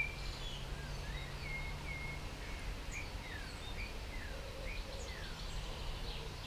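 Birdsong: many short chirps and whistles, several falling in pitch, over a steady low rumble of outdoor ambience.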